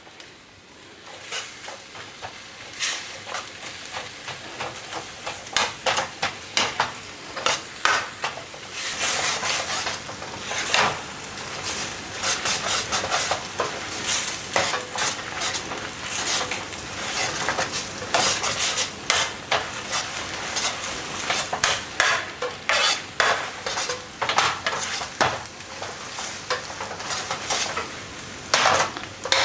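Chow mein noodles with chicken and vegetables sizzling in a hot pan as they are stirred and tossed to mix in the sauce, with frequent irregular clicks and scrapes of the utensil against the pan.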